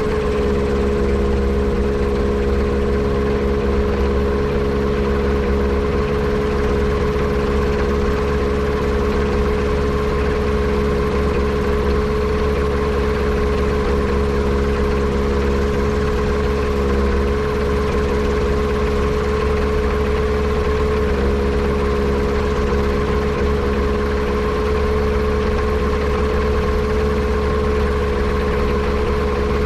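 Yamaha Apex four-cylinder four-stroke engine in a Kitfox airplane running steadily at a constant speed, with no rise or fall in revs, while being checked for a misfire from a potential vacuum leak.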